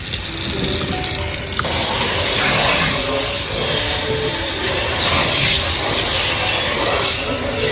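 A steady rushing hiss with faint music-like notes underneath.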